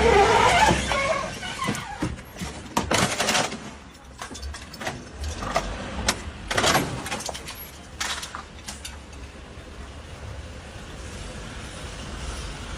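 Low steady vehicle rumble, loudest in the first second, with a scattering of sharp knocks or bangs in the first half.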